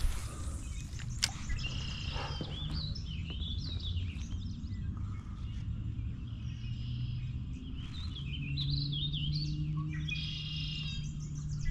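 Songbirds chirping and singing, with many short calls and warbling phrases overlapping. A low steady hum runs underneath, and there is a single sharp click about a second in.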